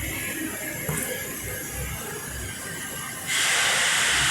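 Shop air compressor noise: faint low thuds at a steady pace, then about three seconds in a loud, steady hiss of compressed air starts suddenly.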